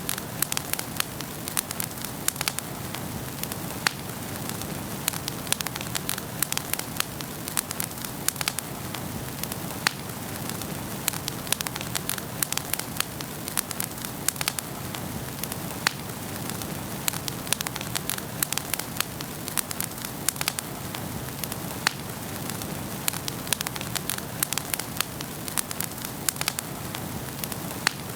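Wood fire burning in a fireplace: a steady rush of flames with frequent sharp, irregular crackles and pops from the burning logs.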